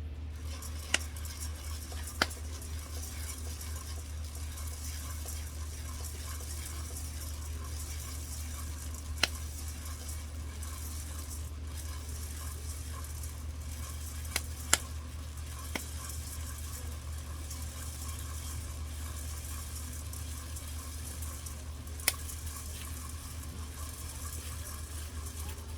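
Food sizzling steadily in a pan over a burner, with a low steady hum beneath and a handful of sharp pops or clicks spaced several seconds apart.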